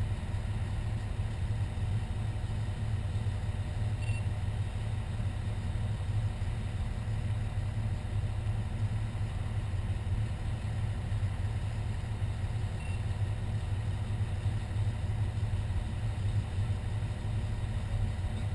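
Fire engine's diesel engine running steadily, a low, even rumble. Two faint short beeps come about nine seconds apart.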